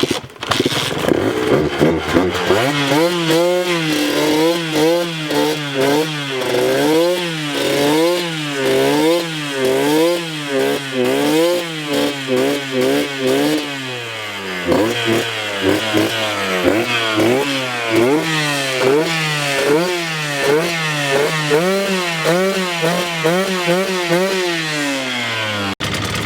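Dirt bike engine starting and being revved up and down over and over, about once a second, with a short lull near the middle, after sitting unused for a week. The sound cuts off suddenly near the end.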